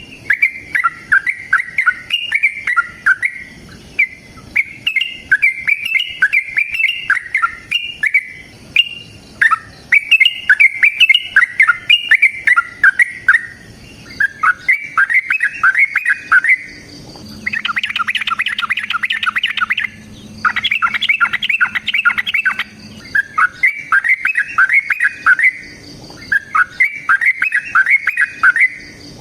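Yellow-vented bulbul (trucukan) singing its loud, bubbly chattering song in repeated phrases of a couple of seconds each. After about halfway the phrases become faster rattling runs over a faint low hum.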